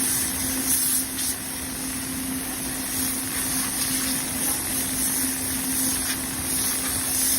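Furnace-cleaning equipment running steadily: a powerful vacuum and high-pressure air give a constant hum under a strong hiss.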